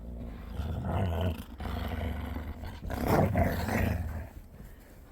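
Two huskies growling and grumbling in play as they wrestle, louder in two spells, about a second in and again around three seconds in.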